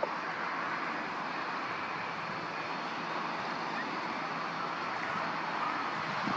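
Airliner jet engines on approach to land, a steady rushing noise.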